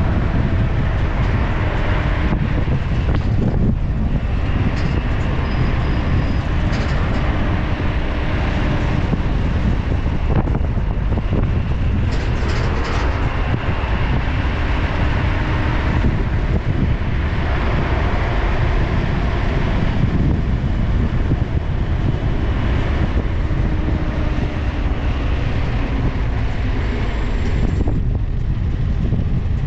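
A vehicle driving: steady engine and road noise with faint slowly drifting hum tones.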